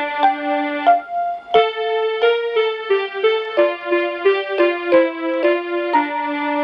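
Soothe & Surprise Nature Lights toy playing an electronic lullaby melody in an electric-piano voice, one held note after another at an easy pace.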